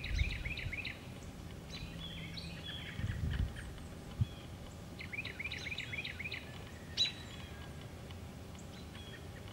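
A songbird singing a quick run of repeated chirping notes at the start and again about five seconds in, with scattered other bird calls over steady outdoor background noise. A few low thumps and sharp clicks come in between.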